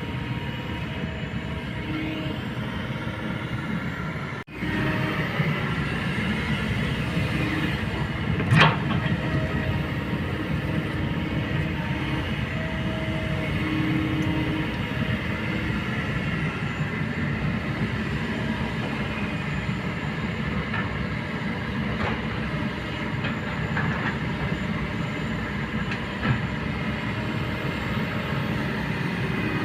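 Kobelco hydraulic excavator working: the diesel engine and hydraulics run steadily, with a few metallic clanks; the loudest is a sharp clank about eight and a half seconds in.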